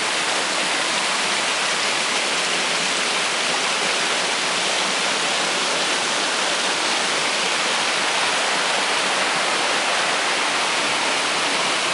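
Mountain creek water rushing steadily over rocks at a waterfall, an even, unbroken rush.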